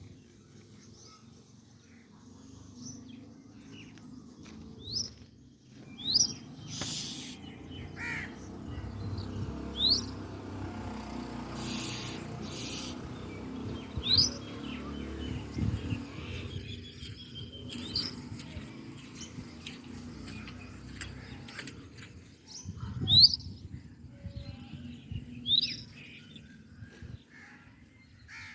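A small bird giving short, high chirps that sweep upward, one every few seconds, over a low background rumble.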